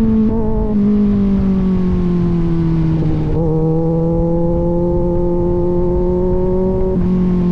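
Kawasaki Z900 inline-four with an aftermarket AR exhaust running under way. The exhaust note drifts down in pitch for the first three seconds, then climbs gently, and shifts abruptly near the end.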